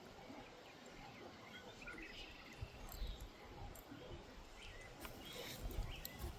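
Faint outdoor background with low rumble, a few short high chirps about two and three seconds in, and scattered brief clicks toward the end.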